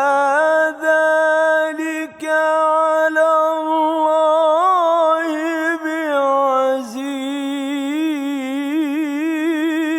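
A male reciter chanting Quran verses in slow melodic tajwid style, holding long drawn-out notes with bends in pitch, and a quick quavering ornament in the last few seconds.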